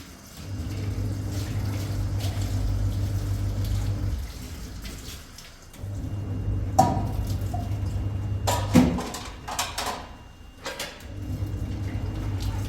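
Water running from a tap with a low steady hum, turned on and off three times, with dishes clinking and clattering between the runs.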